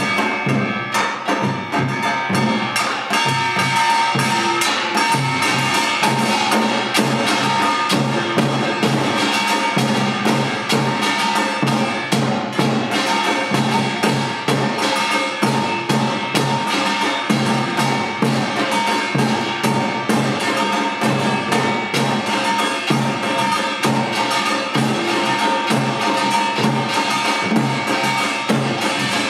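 Yeongnam samulnori, a Korean percussion quartet of kkwaenggwari small gong, jing large gong, janggu hourglass drum and buk barrel drum, playing a fast, dense rhythm with metallic ringing over rapid drum strokes.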